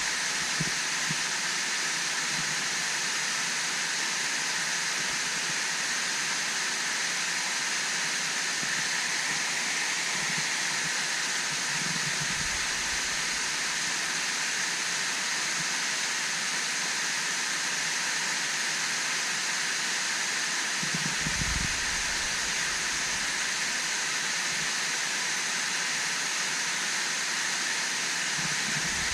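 Waterfall rushing as a steady, even hiss of falling water, with a couple of brief low bumps on the microphone.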